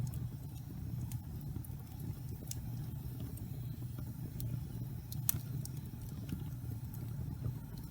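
Wood fire burning in a fireplace: scattered sharp crackles and pops, the loudest about five seconds in, over a steady low rumble.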